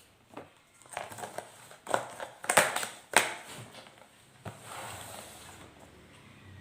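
Crinkling and knocking handling noises: a quick run of sharp crackles and knocks, loudest about three seconds in, then a softer rustle.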